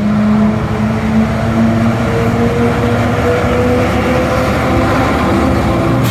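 Diesel engine of a GO Transit train's locomotive running loud and steady at the platform, a low droning hum over a heavy rumble.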